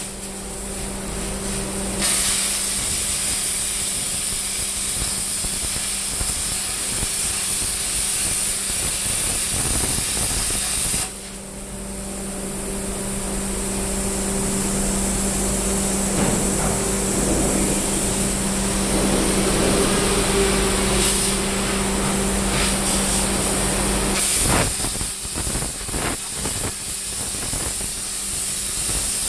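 Plasma cutter torch hissing steadily as it cuts, with a steady hum beneath. The hiss drops out briefly near the start and about eleven seconds in, and after about 24 seconds the hum stops and the hiss turns uneven.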